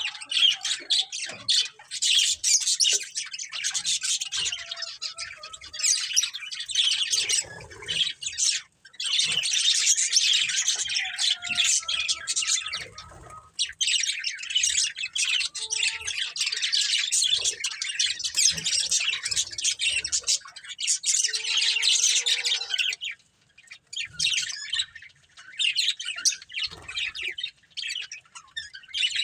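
A group of budgerigars chirping and chattering in a dense, continuous warble, with a brief pause about eight seconds in and another about two-thirds of the way through.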